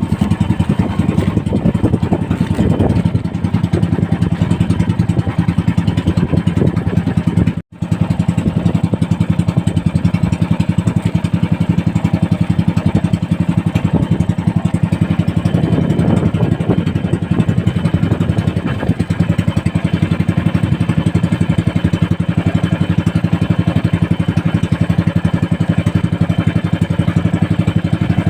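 Small boat engine running steadily, its rapid firing pulses even throughout; the sound drops out for a split second about eight seconds in.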